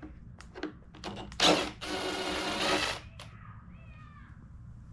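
A cordless power screwdriver runs for about a second, backing out a screw, with clicks of tool handling before it. Faint children's shrieks near the end.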